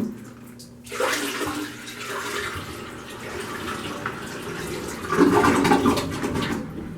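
Dirty water from a bucket being poured into a toilet bowl. It starts about a second in and gets louder for a moment near the end.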